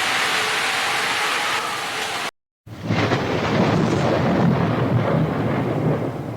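Steady rain hissing, cut off abruptly a little over two seconds in; after a brief dead silence, rain resumes with a deep rolling rumble of thunder underneath.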